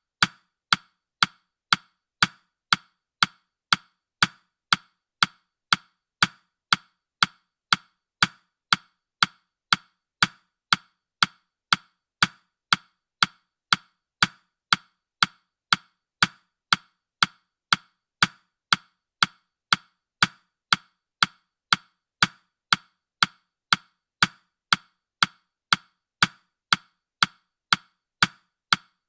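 Countdown timer's ticking sound effect: short, woody ticks, evenly spaced about two a second.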